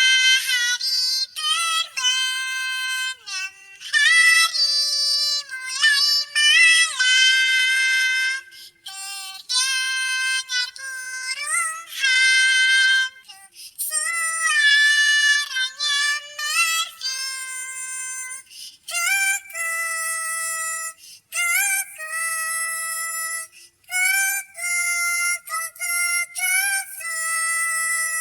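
A very high-pitched, synthetic-sounding singing voice carries a melody in held and gliding notes with short breaks between phrases, in the manner of a pitch-shifted cartoon 'cat' voice singing a song.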